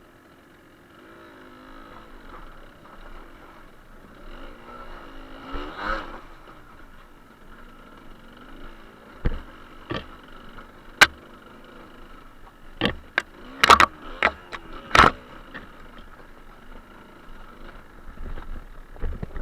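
Suzuki TS125R's two-stroke single-cylinder engine running with the revs rising and falling as the bike is ridden over a rough, rocky track. Over the middle of the stretch come a series of sharp knocks and clatters, several in quick succession.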